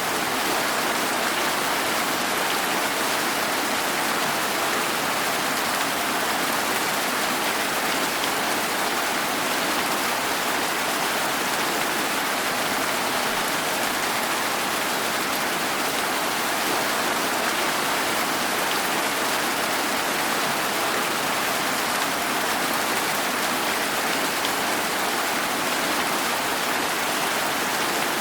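Steady rain falling, an even hiss that holds the same level throughout without thunder or other events.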